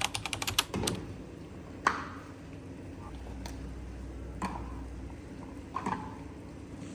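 A quick run of small clicks, then a few sharp isolated clicks and knocks over a faint steady background hum.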